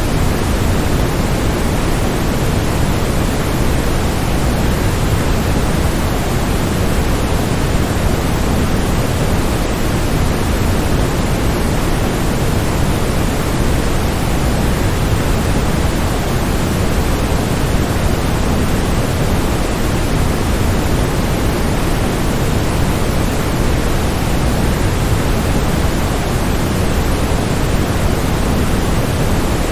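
Steady, unbroken rush of a waterfall, heaviest and deepest in the low end.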